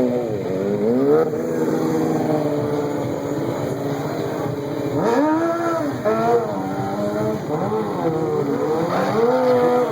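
A stunt vehicle's engine revving up and down repeatedly, its pitch rising and falling in quick swells, with a sharp burst of revs about five seconds in.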